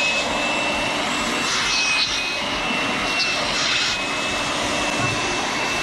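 Air blower running steadily with a high whine over a rush of air, blowing trapped water out of a boat's rub rail.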